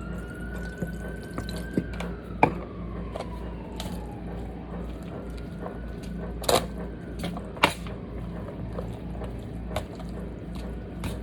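Pasta salad being stirred in a pan with a spoon, with a few sharp knocks of the spoon against the pan, the loudest about two and a half and seven and a half seconds in. A siren wails in the background, its pitch sliding slowly down over the first few seconds.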